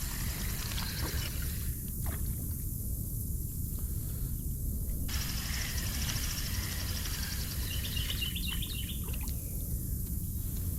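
Riverbank ambience: a steady low rumble, with high-pitched insect buzzing that cuts in and out and a brief run of bird chirps about eight seconds in.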